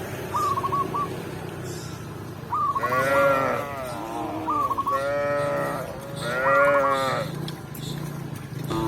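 Cow mooing three times in quick succession, each moo a long arching call. Through it, a short high call repeats in little runs of notes every second or two.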